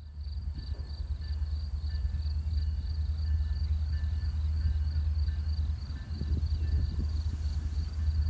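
Insects chirping in a steady rhythm of about three pulses a second, with a thin, continuous high insect buzz, over a steady low rumble that swells a little about six seconds in.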